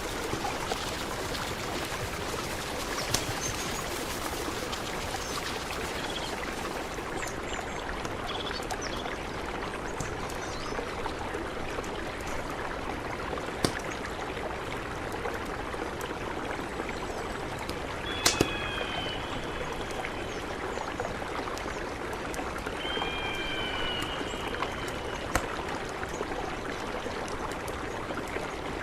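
Mountain river rushing steadily. A few short chirping calls come through about two-thirds of the way in, along with a few sharp clicks.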